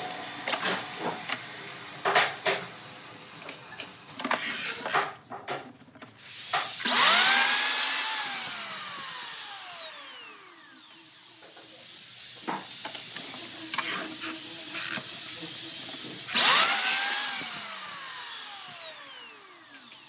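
A small electric power tool motor triggered twice: each time it spins up quickly, then its whine falls steadily in pitch as it coasts down to a stop. Scattered knocks and clatter of handling tools and wood come before the first run.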